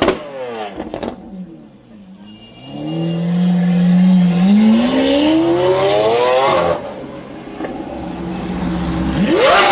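Lamborghini supercar engine with a loud exhaust: the revs fall away at first, then the car accelerates hard with the pitch climbing steadily until it cuts off suddenly about two-thirds of the way through. The engine then runs at a steady lower note, and a drum-beat music track comes back right at the end.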